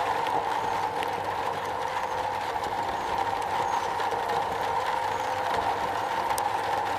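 Steady rain falling on metal: an even hiss with a few sharper drop ticks.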